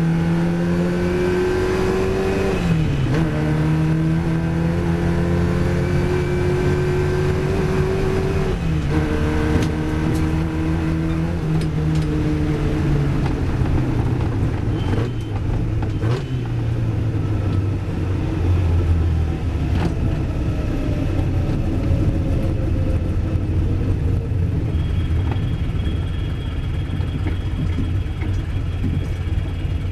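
Riley racing car's engine heard from inside the cabin, accelerating hard with two upshifts where the revs drop sharply. It then lifts off, the pitch falling slowly as the car slows, and settles to a steady low running note near the end.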